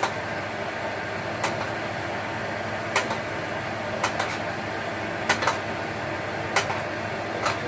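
Steady fan-like whirring, as of an appliance running, with sharp clicks about every second and a half, some in quick pairs.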